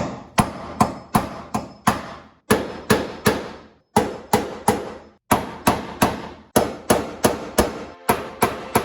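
Repeated hammer blows in an even rhythm, about three a second, each ringing briefly before the next.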